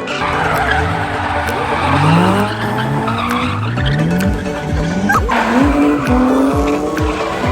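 Drift car engine revving up and down in repeated rising and falling sweeps, with tyres squealing. Background music with a steady beat comes in about halfway through.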